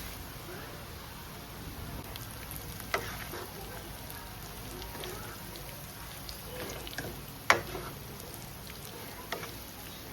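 Food sizzling in a frying pan while a spatula stirs it, knocking sharply against the pan a few times, loudest a little past the middle.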